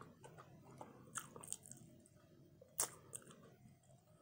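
Faint mouth sounds of chewing barbecue rib tips: soft wet smacks and scattered small clicks, the sharpest about three seconds in.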